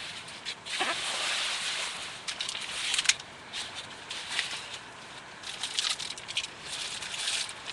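Footsteps crunching and scraping on a stony mountain trail, irregular, with a burst of hiss about a second in and a sharp click near three seconds.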